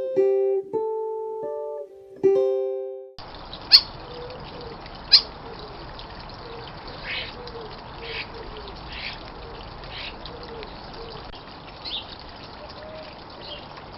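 A short plucked-guitar music intro that cuts off about three seconds in, then garden ambience with birds calling: two sharp chirps about a second apart, followed by softer chirps every second or so over a steady background hiss.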